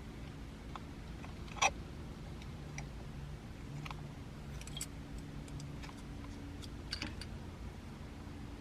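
Scattered light clicks and taps of plastic parts from a car camera mount being handled and fitted together, the sharpest click early on and a few more later, over a faint steady low hum.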